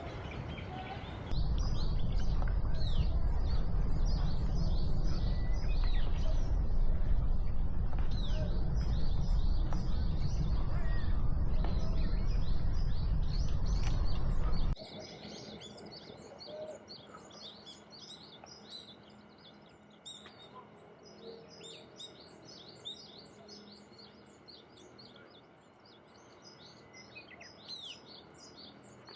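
Wild birds chirping and twittering, many short high notes in quick succession. For roughly the first half a loud low rumble sits under the birdsong and cuts off suddenly, leaving only the twittering.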